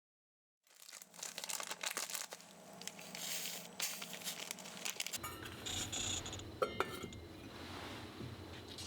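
Kitchen handling sounds: irregular crinkling and rustling of wrapping with a few light clinks, as food is prepared.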